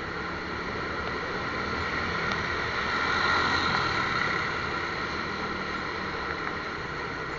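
Steady vehicle and road noise, with a low rumble and hiss that swells a little about three seconds in and then eases off.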